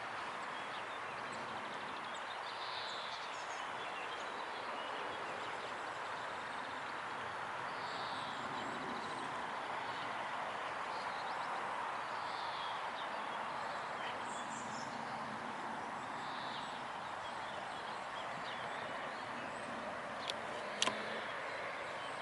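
Outdoor ambience: a steady rushing noise with faint, scattered bird chirps, and two sharp clicks close together near the end.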